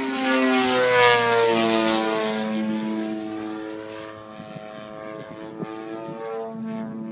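Propeller aircraft engine flying past. It is loudest about a second in, its pitch shifts as it passes, and then it fades as it moves away.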